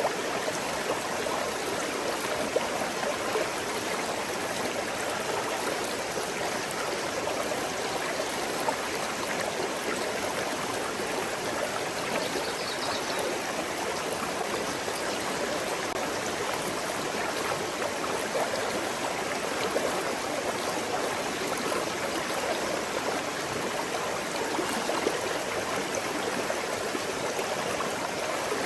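A small forest stream flowing over stones, a steady rush of water.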